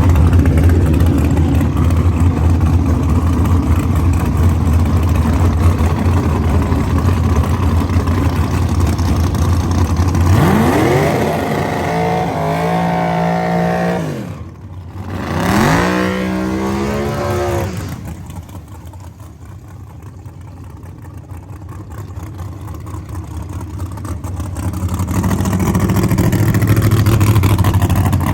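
Drag race car engines running loud and lumpy at low revs, then revved hard twice, climbing in pitch and held up high for a few seconds each time, before dropping back and swelling again near the end.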